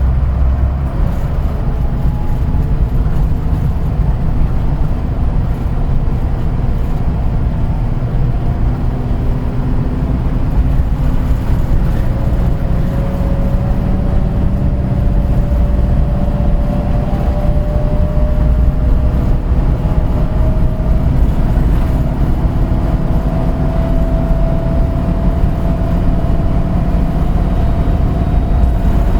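Bus running on the road, heard from on board: a steady low engine and road rumble, with a whine that rises slowly in pitch through the second half as the bus gathers speed.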